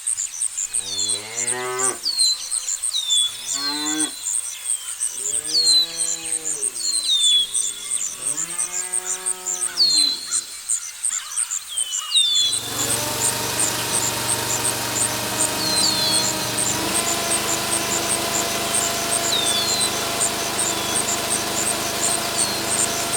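Cattle mooing, about six long calls in the first half, with short falling bird chirps and a fast, high insect-like trill throughout. About halfway a steady hum with several held tones takes over and runs on.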